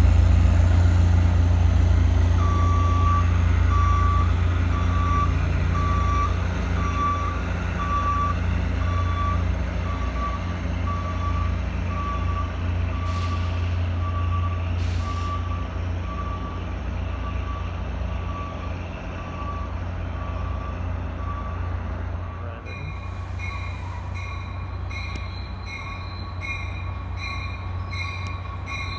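Low rumble of a departing Caltrain diesel train, slowly fading, with a vehicle's reversing beeper sounding about once a second from a couple of seconds in. Near the end a quicker ringing bell starts up as another train approaches.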